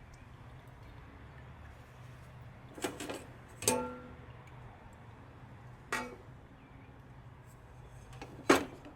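Metal parts basket knocking against the inside of a carburetor-cleaner can as it is taken out: five sharp clanks, one leaving a short metallic ring, the loudest near the end.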